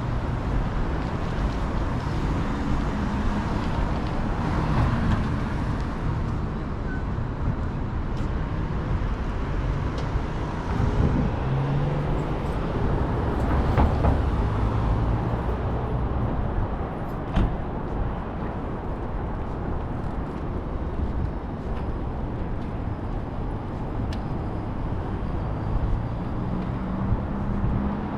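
City street traffic: motor vehicles passing with engine hum and tyre noise, swelling as a couple of them go by, with a few sharp clicks mixed in.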